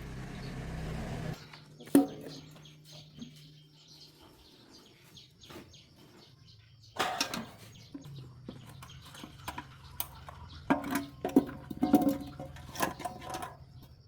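Hand tools and metal motorbike parts clinking and knocking during repair work, in separate sharp knocks with a busy cluster near the end. A steady low hum cuts off about a second in.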